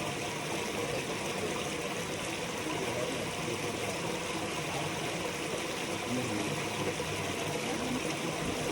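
Stream water running with a steady rush.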